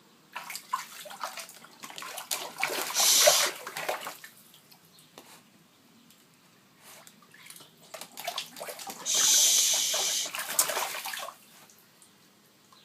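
Water splashing and sloshing as a dog bathes, in two bouts, each rising to about a second of dense, steady hiss before it dies down.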